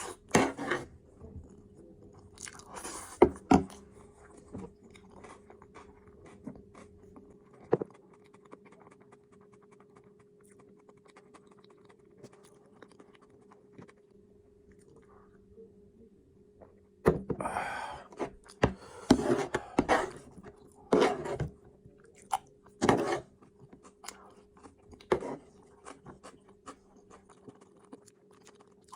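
Close-up eating sounds: a person chewing and biting food, with sharp clicks and crunches. These come in two louder bursts, near the start and again from about 17 to 23 seconds, over a faint steady hum.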